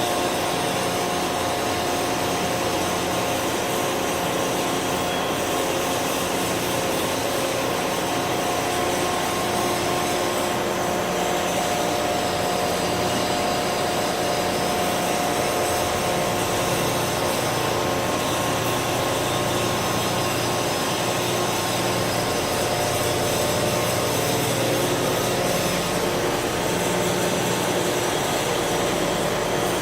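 Steady industrial machinery noise: a constant hum with several fixed tones over an even hiss, running without a break or change in level.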